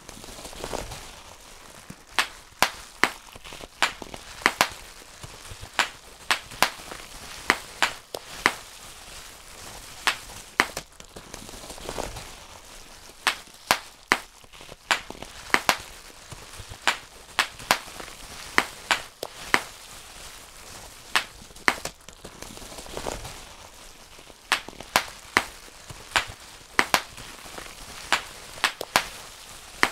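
Bubble wrap being popped by hand, one bubble at a time: sharp pops at an irregular pace of about one or two a second. There are short pauses about a second in, about twelve seconds in and about twenty-three seconds in, where only the rustle of the plastic sheet is heard.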